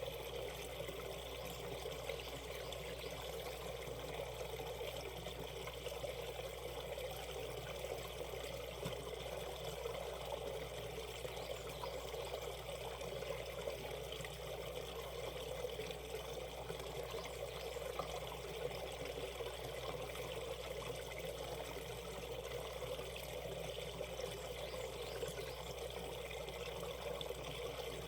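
Shallow valley stream water running steadily over rocks, a continuous babbling rush.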